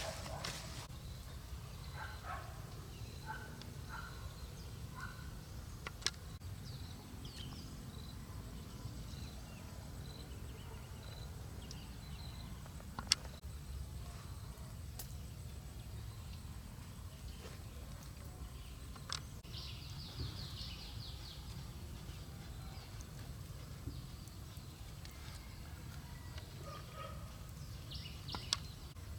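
Outdoor ambience: a steady low rumble, with a few sharp clicks several seconds apart and faint short high chirps scattered through it.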